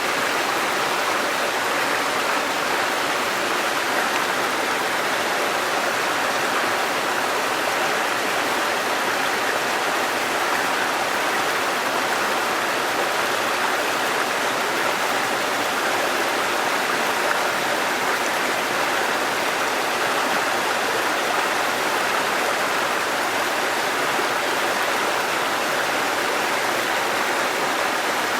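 Waterfall and rushing stream water, a steady even rush.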